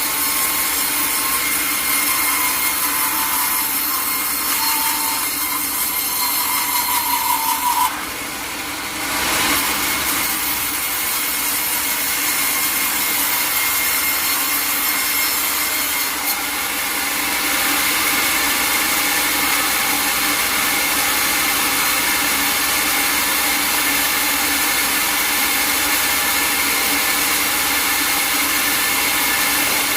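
Sawmill saw cutting through a log: a steady, loud rasping noise with a steady whine over it. It dips briefly about eight seconds in, then goes on as before.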